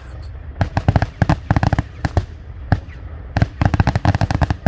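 Aerial fireworks going off in rapid volleys of sharp cracks and bangs, two dense clusters with a thinner stretch of a few bangs between them.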